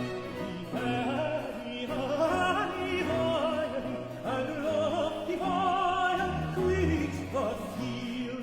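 Countertenor singing a solo air with vibrato, accompanied by a Baroque string band with violins.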